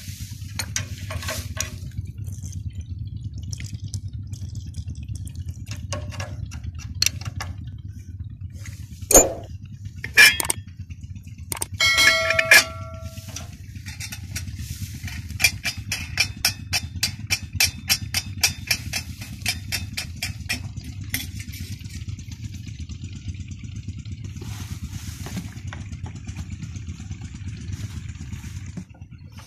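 Peter diesel engine of a tube well running steadily with a low, even hum. A few loud metallic clanks come about nine to thirteen seconds in, followed by a run of rapid, evenly spaced ticks.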